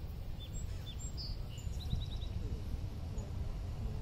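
Steady low outdoor rumble with a small bird chirping in the background: a few single high chirps, then a quick run of five short notes about two seconds in.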